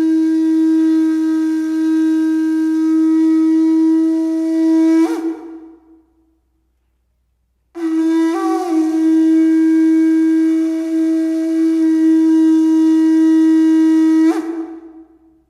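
A horn blown in two long, steady notes of the same pitch, each held for about six seconds, with a pause of about two seconds between them. The second note wavers briefly just after it starts.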